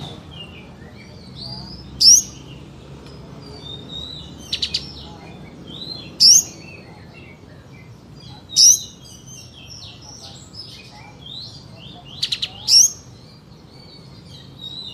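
White-shouldered triller (kapas tembak) singing: four loud, sharp calls sweeping steeply upward, a few seconds apart, with short rapid trills and softer twittering in between.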